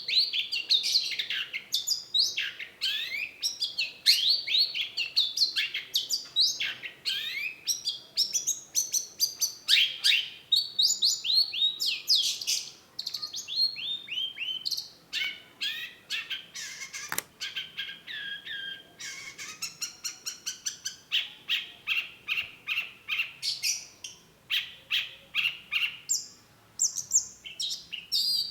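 Long-tailed shrike singing a fast, varied song of chirps and downward-slurred notes, changing in the second half to quick runs of short repeated notes.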